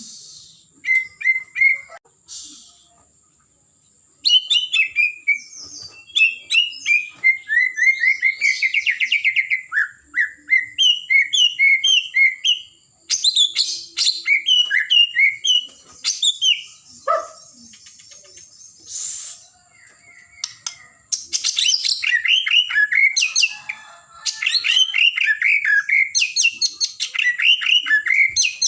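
White-rumped shama (murai batu) singing in full voice: long, rapid, varied phrases of trills and whistled notes, broken by a few short pauses.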